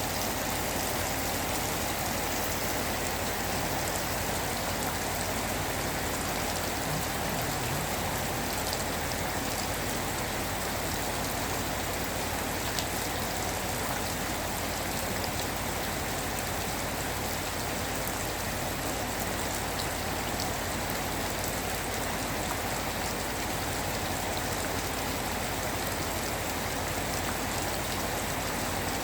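Rain falling steadily: an even hiss with a few sharper drop ticks here and there.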